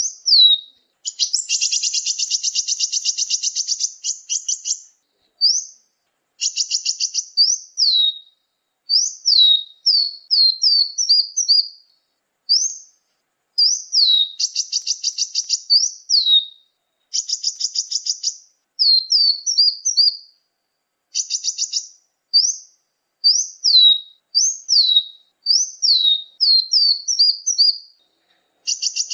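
Bird-lure recording of small songbirds calling: high, sharp down-slurred chirps mixed with several buzzy, rattling trills of one to three seconds each, in repeated phrases with short pauses between them.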